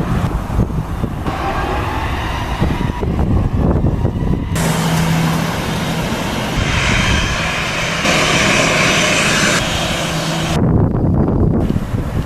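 Boeing 737-800's CFM56 turbofan engines at takeoff power, a steady jet hiss that swells about four seconds in and drops back near the end, with wind buffeting the microphone throughout.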